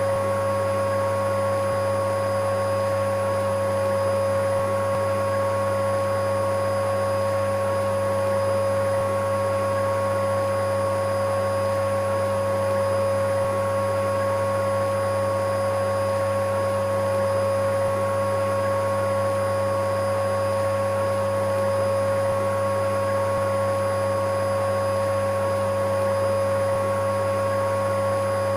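Electric vacuum cleaner running steadily: a constant motor whine with one strong steady tone over a low hum, never changing in pitch or loudness.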